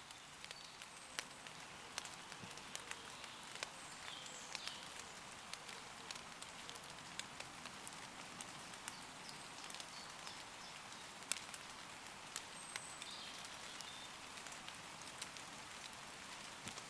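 Steady gentle rain falling on leaves, a soft hiss broken by many sharp individual drop taps. Faint distant woodland bird calls come through a few times.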